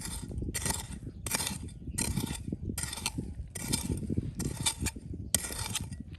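Repeated scraping strokes, about one every three-quarters of a second, over a layer of low knocks and clinks of hard objects.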